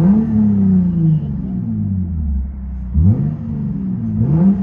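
Lexus IS 250's 2.5-litre V6 revving through an aftermarket resonator/delete exhaust: repeated throttle blips, each rising sharply and sliding back down toward idle, with a short blip about three seconds in and another rev climbing near the end.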